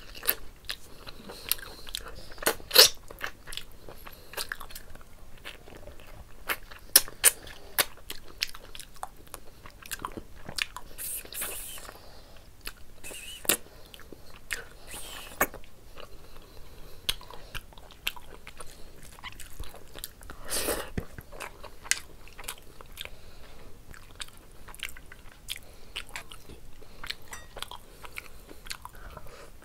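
Close-miked chewing and lip smacking of mouthfuls of rice and mutton curry eaten by hand, with many sharp, irregular wet clicks, and sucking on a mutton bone.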